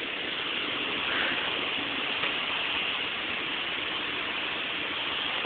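Steady rush of storm wind blowing in at an open window screen.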